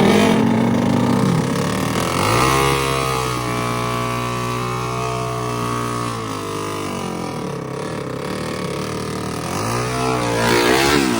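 Dirt bike engine revving: the pitch climbs about two seconds in, is held high for several seconds, drops back, then climbs again near the end.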